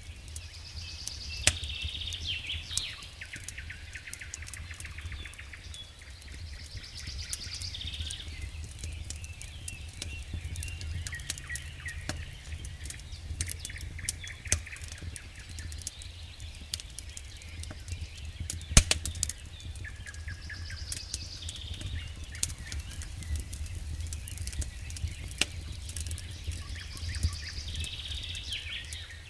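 Campfire crackling with frequent sharp pops over a low steady rumble, while a songbird sings short high phrases every several seconds.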